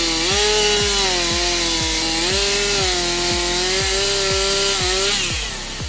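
Chainsaw running at high revs and cutting wood, its pitch sagging slightly under load and recovering, then cutting off about five seconds in.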